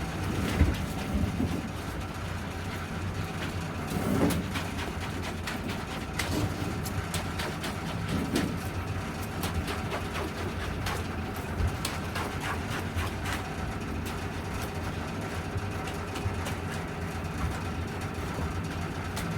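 Diesel engine of a concrete delivery lorry running steadily at a low drone, with scattered short knocks over it.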